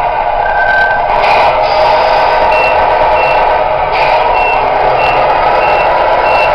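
Reversing beeper of a Tamiya RC truck: short high beeps, about one every two-thirds of a second, starting a couple of seconds in, over a steady mechanical hum.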